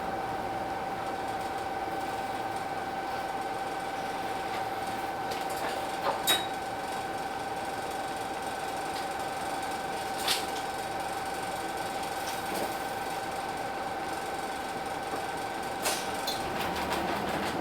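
Cab of a Hino Blue Ribbon City bus standing still: a steady high-pitched whine over a quiet background, with a few sharp clicks about six, ten and sixteen seconds in.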